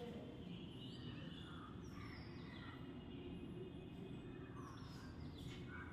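Faint background noise with a few short, high, falling chirps of birds, spaced a couple of seconds apart.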